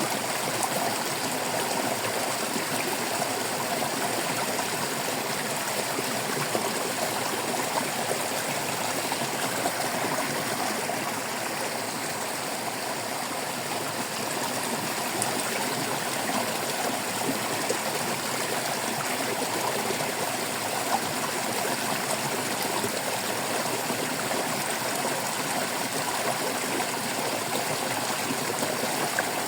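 Shallow stream babbling and splashing steadily over rocks, a continuous rush of water with many small, close gurgles.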